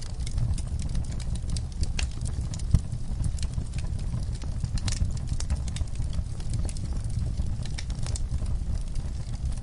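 Wood fire in a fireplace crackling with frequent irregular pops, one louder pop about three seconds in, over a steady low rumble.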